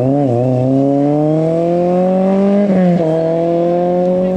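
Rally car engine accelerating hard, its pitch climbing steadily, with a quick upshift about three seconds in, after which it climbs again.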